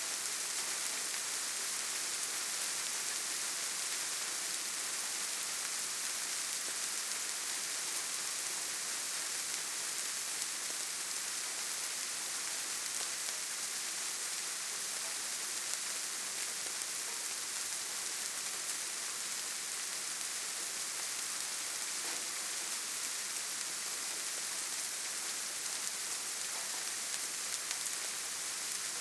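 Steady rainfall: an even, unbroken hiss, brightest in the high range, with no thunder or single drops standing out.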